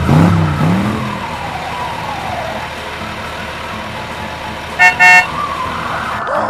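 Cartoon car sound effects: a vehicle running with a slowly falling tone early on, and two quick horn toots about five seconds in.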